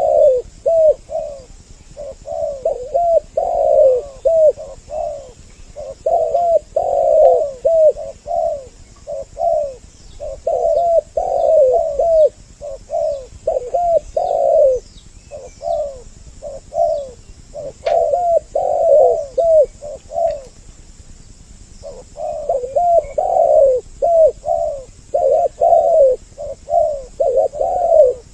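Spotted doves (tekukur) cooing over and over, a male and a female calling together so that their phrases overlap, with a short break about three quarters through. This is a recorded lure call for trapping doves. Faint high chirps of small birds run behind it.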